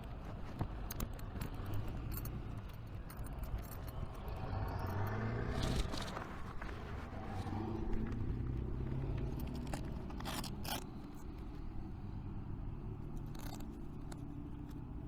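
Honda VTX1300 cruiser's V-twin engine running at low speed, its pitch rising briefly about halfway through, with scattered sharp clicks and scraping close by.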